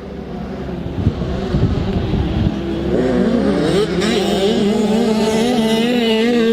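65cc two-stroke motocross bikes revving as they ride past, getting louder, with the engine note rising about halfway through and then wavering as the throttle is worked. A few low thumps come in the first couple of seconds.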